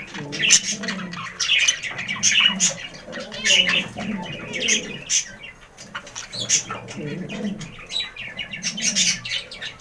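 Budgerigars chattering: a busy run of rapid, high chirps and squawks with warbling underneath.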